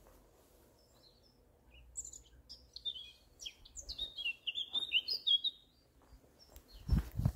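A songbird singing a quick, varied run of high chirping notes for about four seconds, starting about two seconds in. Near the end come low footstep thuds.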